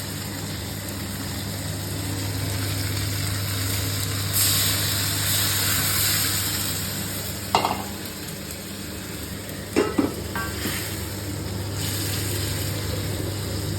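Chicken curry sizzling in a pan as it is stirred, the sizzle swelling louder about four seconds in. A few sharp clinks of the utensil against the pan come about seven and a half and ten seconds in, over a steady low hum.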